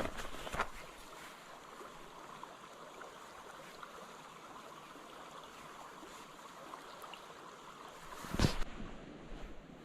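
Creek water running steadily, with a few handling knocks near the start and one loud thump about eight and a half seconds in.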